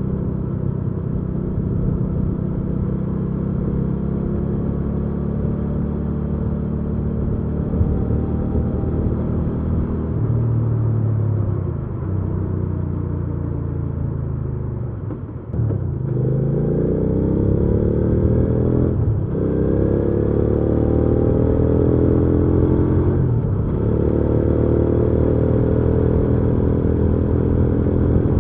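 Hyosung GV300S Aquila 300 V-twin motorcycle engine under way. It runs steadily at first, then drops off about halfway through as the throttle closes. It then pulls hard again, rising in pitch with two short breaks as it shifts up.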